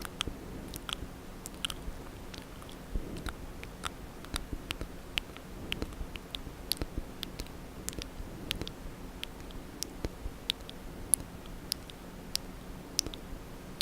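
Wet, close-up mouth sounds: irregular tongue clicks and lip smacks, several a second.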